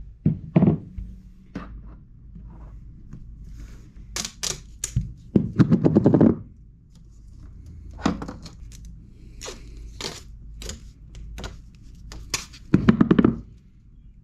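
A string of sharp clicks and knocks from hard objects being handled, with two longer rattling scrapes about five seconds in and again near the end.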